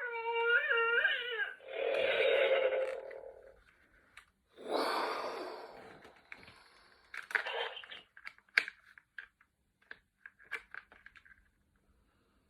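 Electronic Mandalorian action figure's speaker playing a short, wavering Grogu coo, followed by two hissing sound effects about two and five seconds in. Scattered plastic clicks and taps follow as the figure is handled.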